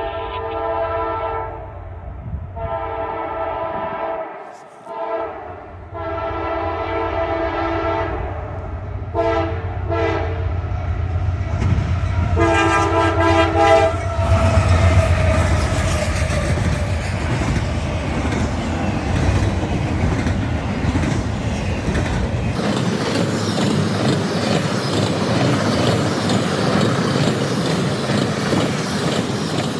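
CSX freight locomotive's air horn giving a quick horn show: about six blasts, long and short, over the first fourteen seconds. The locomotives and train then rumble past with wheels clacking on the rails.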